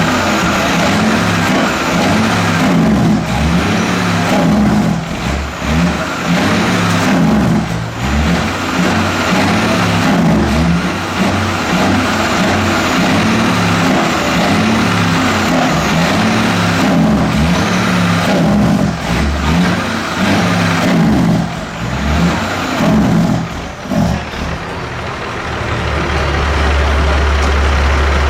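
Straight-piped diesel engine of a 2012 Peterbilt 389 semi truck running loud, its exhaust note rising and falling with brief dips every few seconds.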